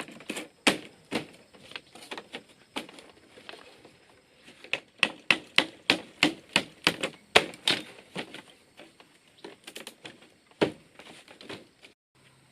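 Sharp knocks of a tool striking bamboo: scattered at first, then a quick, even run of about three strikes a second in the middle, thinning out toward the end.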